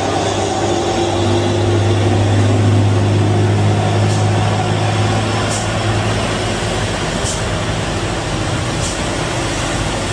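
Heavy truck's diesel engine running steadily under load at low revs, a deep drone as it climbs a steep grade.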